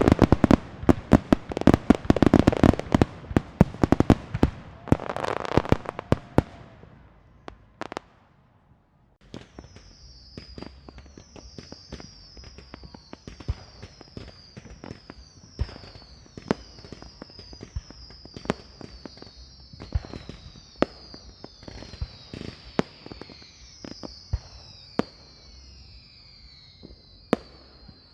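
Firecrackers going off in a rapid, dense string of loud cracks that dies away after about six seconds. After a short pause come scattered fainter pops, with a run of repeated high whistles falling in pitch.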